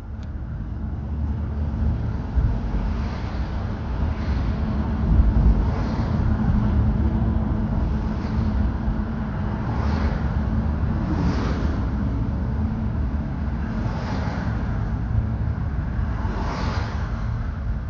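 Steady low rumble of a car on the road, with a tyre hiss that swells every one to two seconds.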